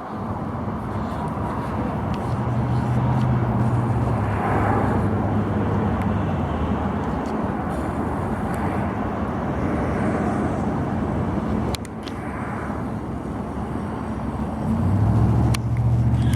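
Road traffic going by: a steady noise that swells as vehicles pass, with a low engine hum, and two sharp clicks in the second half.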